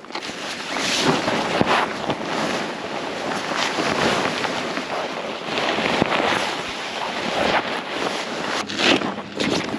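Wind buffeting the microphone: a loud rushing noise that surges in short, irregular gusts.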